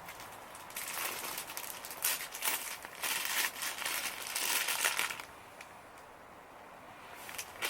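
Crinkling and crumpling rustle in irregular bursts for about four seconds, then dying down, with another short burst near the end.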